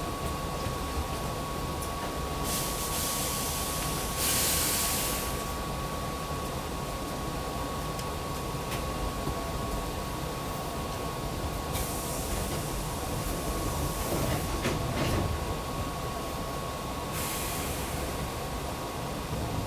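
Hankyu 6300 series electric train running between stations, heard inside the car: a steady rumble with a constant high whine, stretches of louder hiss coming and going, and a few sharp wheel clicks about three-quarters of the way through.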